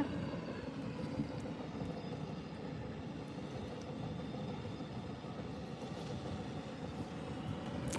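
Steady, faint drone of a distant engine over a background hiss.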